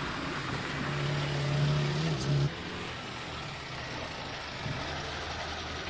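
Zastava Yugo 45's small four-cylinder engine running as the car drives past, its note rising a little and loudest about two seconds in, then cutting off abruptly. A lower, steady engine hum and road noise follow.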